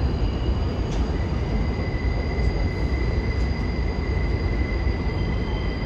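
New York City subway train running on elevated track, a steady heavy rumble with a thin, steady high whine that comes in about a second in.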